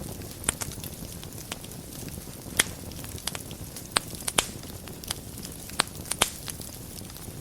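Wood fire burning in a fireplace: a steady low rumble of flame with irregular sharp crackles and pops, a few louder snaps scattered through.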